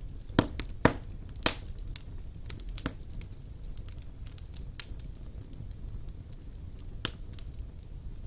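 Wood fire burning in a fireplace: a low steady rumble of the flames with irregular sharp crackles and pops from the logs, three loud pops in the first second and a half and another just before the end.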